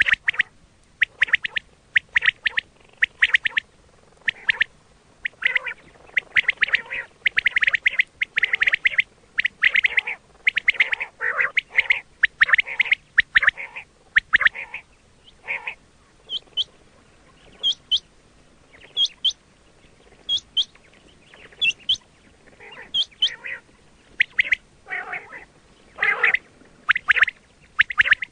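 Quail calling repeatedly, in short bursts of rapid notes with brief gaps between them. In the middle stretch thin, high, rising chirps come through alongside.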